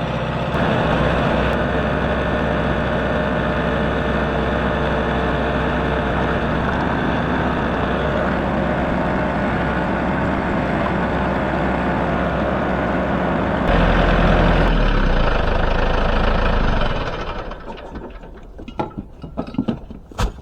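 A vehicle engine idling steadily. It gets a little louder and deeper for a few seconds, then stops about three-quarters of the way through. A few scattered small knocks and clicks follow.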